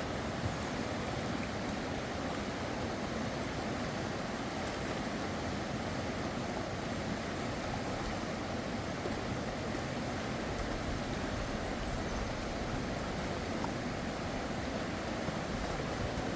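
Fast river water rushing steadily, an even unbroken noise.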